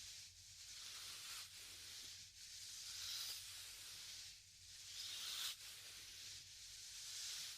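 Soft ASMR mouth sounds into a binaural microphone: gentle breathy blowing of air, swelling and fading about five times, with a few faint mouth clicks between the breaths.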